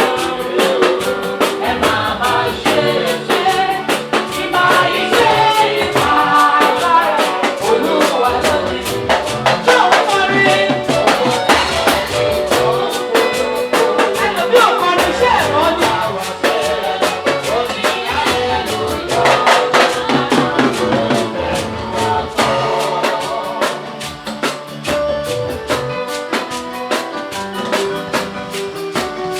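Live gospel praise music: a band with drum kit plays a steady beat under singing.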